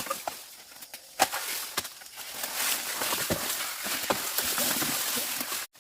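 Scattered sharp knocks and clicks, then about two seconds in a steady hissing rustle with small clicks in it, which cuts off suddenly near the end.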